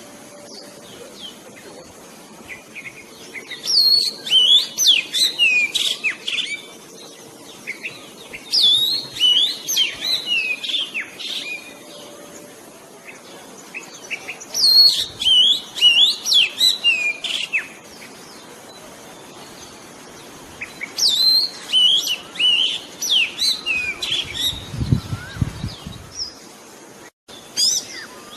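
Oriental magpie-robin song played as a trapping lure call: bursts of quick, varied whistled notes a few seconds long, separated by pauses of a few seconds. A few low thumps come near the end.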